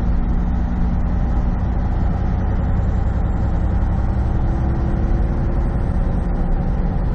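Semi truck's diesel engine running at a steady cruise with road noise, heard from inside the cab.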